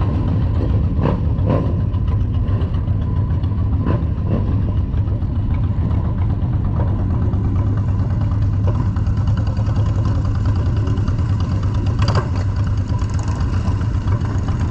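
Motorcycle engine running steadily at a low, even pitch, with a few short clicks about a second in, around four seconds in and near the end.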